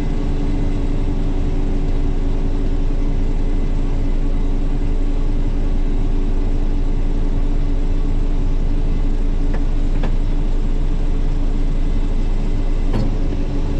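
Heavy engine running steadily at a constant speed, a loud even hum made of several steady tones.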